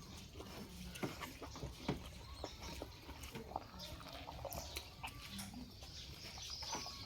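Faint eating sounds: chewing and wet mouth clicks, scattered irregularly.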